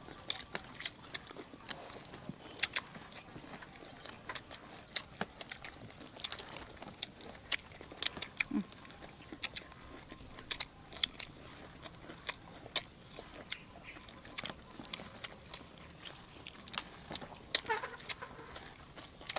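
People chewing and crunching food close to the microphone: meatballs and fresh lettuce leaves. It comes as irregular wet mouth clicks and crisp crunches.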